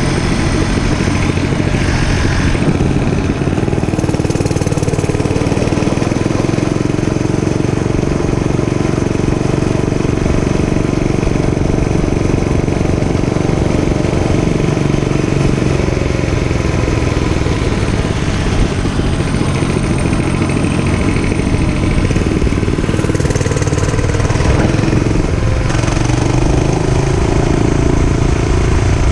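Dirt bike engine running steadily during a ride, its pitch rising and falling a little with the throttle.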